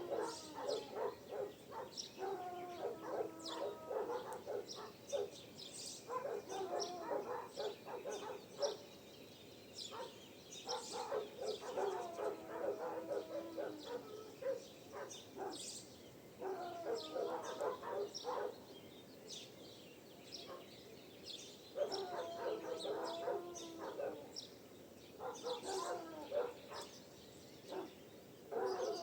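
Dawn birdsong, with many short high chirps throughout. Every few seconds there is a bout of two to three seconds of lower, pitched calls from another animal.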